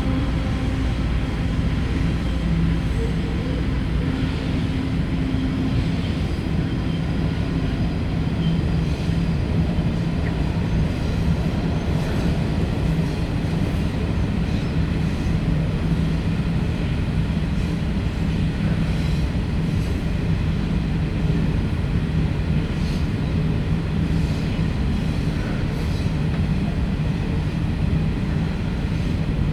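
Three diesel-electric locomotives of a triple-headed loaded coal train running steadily with the train, a continuous deep engine drone over the rumble of the wagons. The engine note shifts a little in the first several seconds.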